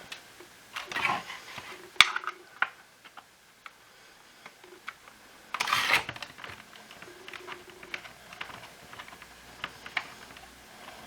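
Hard plastic parts of a cordless stick vacuum being handled during disassembly: scattered small clicks and knocks, a sharp click about two seconds in, and short scraping rustles around one second and around six seconds.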